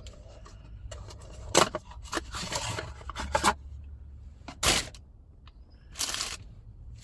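Hands handling car parts and packaging: a few short scraping and rustling noises, the sharpest about one and a half seconds in and near five seconds, over a low steady hum.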